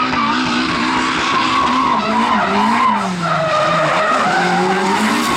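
Drift car sliding at speed: the engine revs rise and fall as the driver works the throttle, over continuous tyre screech.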